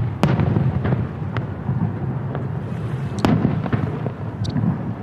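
Aerial fireworks shells bursting: a sharp bang at the start and another about three seconds in, with lighter pops between them and a low rumbling echo throughout.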